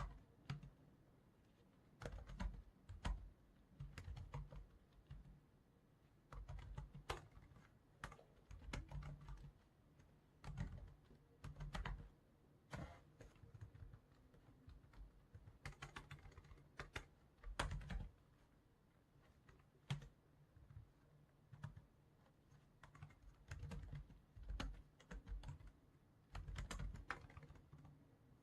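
Computer keyboard typing in bursts of a second or two, separated by short pauses.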